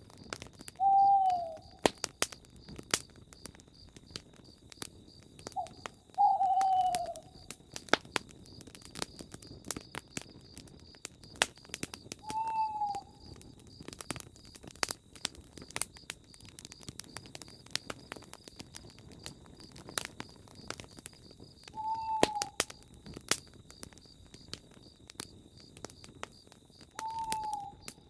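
Campfire crackling with frequent sharp pops. An owl hoots five times, each a short call sliding downward, spaced several seconds apart. A faint steady high trill runs underneath.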